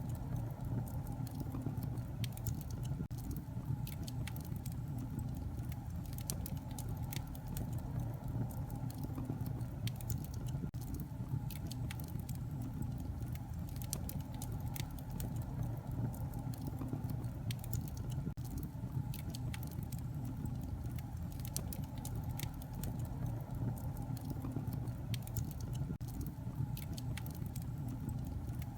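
Wood fire in a fireplace crackling: a steady low rumble of burning with many small, irregular pops and snaps scattered throughout.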